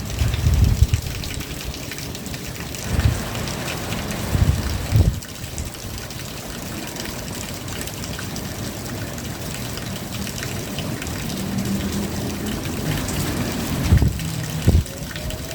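Steady rain falling, with water running and trickling, and a few brief low rumbles near the start and again near the end.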